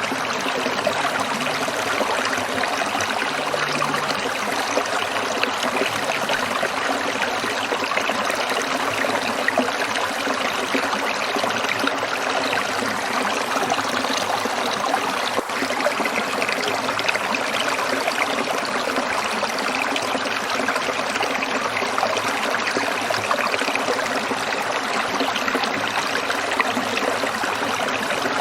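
Stream water trickling and splashing steadily over stones, with one faint click about halfway through.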